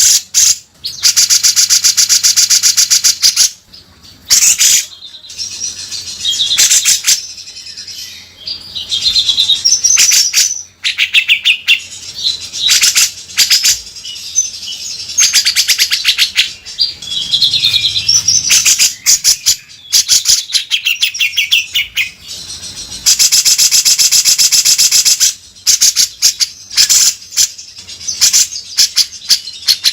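Grey-cheeked bulbul (cucak jenggot) singing hard, with long harsh, rasping rattles of very rapid buzzy notes alternating with short chattering, warbled phrases.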